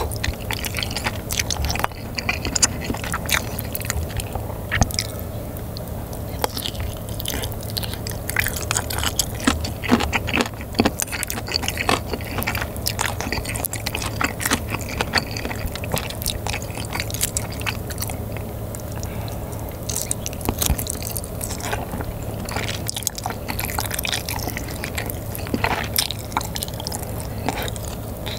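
Close-miked wet chewing and biting of spicy, sauce-coated sous-vide chicken and noodles, a dense run of small mouth smacks and clicks with no pause.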